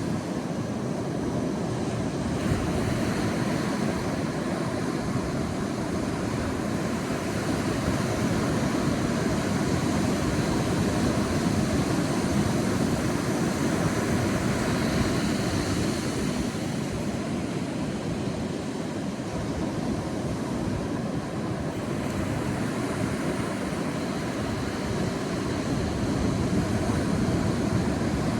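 Sea waves breaking and washing on a beach in a steady rolling surf, with slow rises and falls in level.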